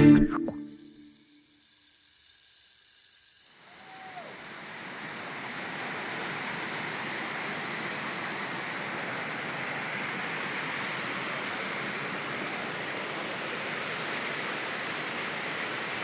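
Steady rushing of a waterfall, fading in about four seconds in and holding even to the end.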